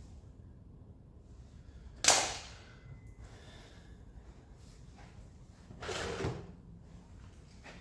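Two metallic clunks from engine parts or tools being handled: a sharp one about two seconds in, and a longer, duller clatter about six seconds in.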